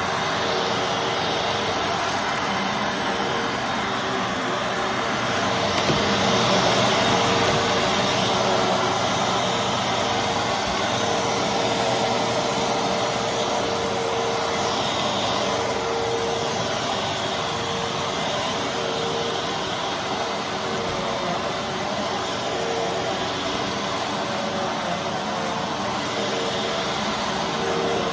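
Fantom Fury Special Edition bagless vacuum cleaner running steadily: a constant rush of air over a steady motor hum, a little louder for a few seconds about six seconds in.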